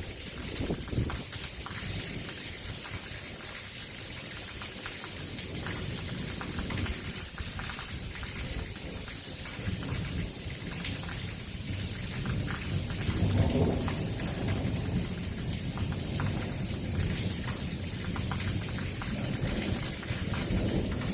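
Heavy rain falling steadily during a thunderstorm, with thunder rumbling low underneath and swelling to its loudest about two-thirds of the way through.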